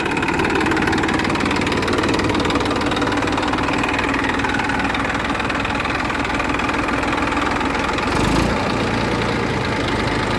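Tractor engine idling steadily, with a brief thud about eight seconds in.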